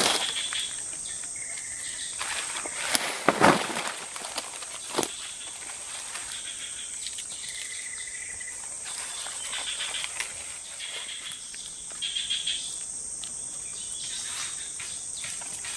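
Tropical forest insects: a steady high-pitched drone, with shorter chirping calls coming and going. A few knocks and rustles come about three and five seconds in.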